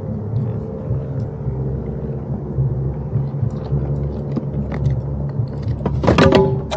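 Steady low rumble with scattered small clicks, and a louder, brief sound about six seconds in.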